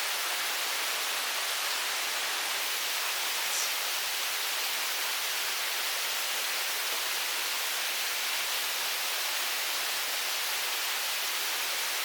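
A mountain stream running with a steady, even rush of water.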